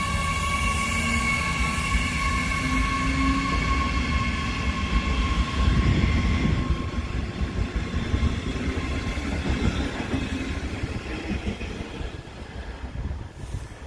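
Electric locomotive hauling a train of double-deck passenger coaches, its traction motors whining steadily over the rumble of the wheels on the rails. The rumble is loudest about halfway through, then the sound fades as the train draws away.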